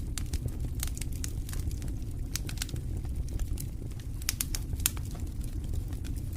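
Wood campfire crackling: frequent sharp pops and snaps over a steady low rumble, with a few louder pops about four to five seconds in.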